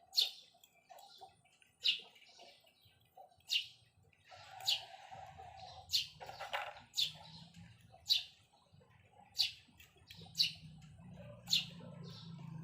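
A small bird chirping repeatedly, with short sharp chirps about once a second. A low steady hum comes in about halfway through.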